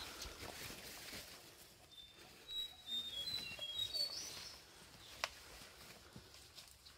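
A bird sings a quick run of short, high whistled notes at changing pitches about two seconds in. Under it are footsteps and leaves brushing on a forest trail, with one sharp click about five seconds in.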